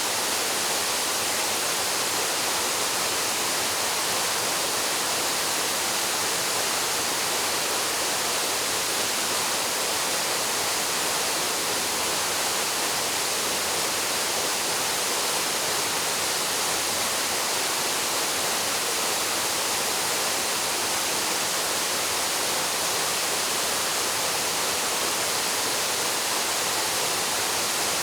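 Waterfall plunging into its pool: a steady, even hiss of falling water, strongest in the upper range with little low rumble.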